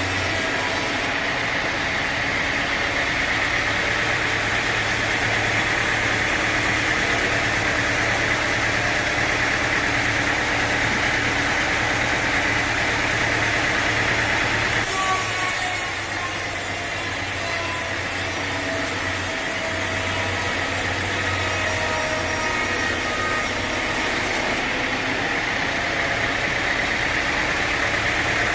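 Sawmill machinery running steadily, an engine-driven saw with a constant low hum under a steady noise, changing abruptly in tone about a second in, midway, and near the end.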